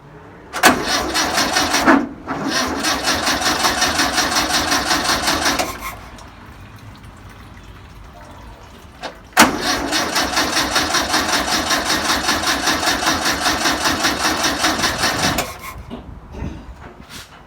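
1962 VW Type 2's air-cooled flat-four engine cranked on the starter in two bursts of about five and six seconds, a rapid even chugging that stops each time without the engine catching, turning the engine over to pump fuel through the new fuel line from the tank.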